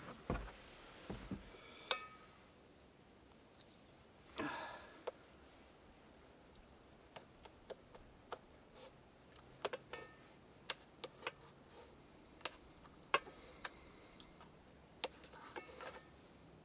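Cutlery clicking and tapping against a dish as a steak is cut, in scattered light strokes, with a short scrape about four and a half seconds in.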